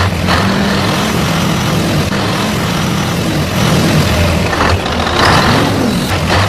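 Heavy truck engine sound running steadily, its pitch rising and falling a few times as if revving.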